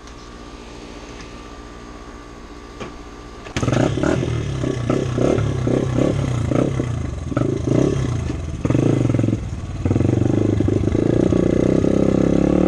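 Freshly rebuilt dirt bike engine starting about three and a half seconds in, then revved in a series of short blips. After a brief dip it settles into a steady, higher-revving run near the end.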